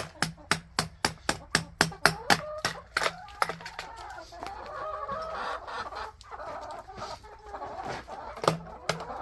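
Quick, steady chipping strikes on frozen ice in a chicken waterer, about three a second, stopping about three and a half seconds in, while chickens cluck throughout.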